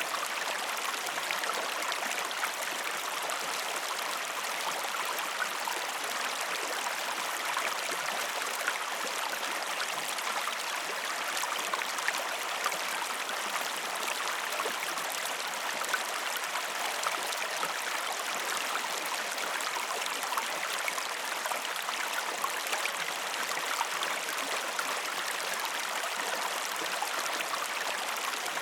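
A river running steadily, an even rush of flowing water with small splashes scattered through it.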